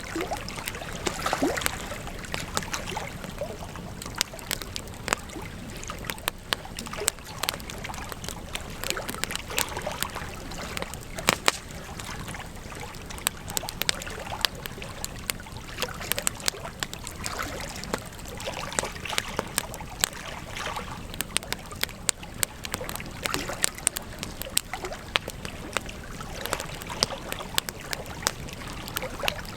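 Campfire of burning wood crackling, with frequent irregular sharp pops over a steady hiss.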